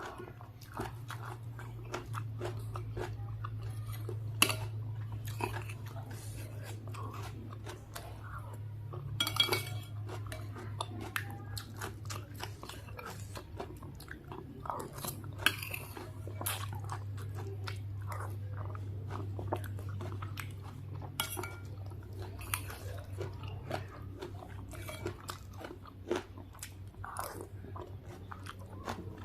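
Close-up eating sounds of noodle soup with raw bird's eye chilies: steady chewing and biting with many irregular crunches and wet clicks. A steady low hum runs underneath.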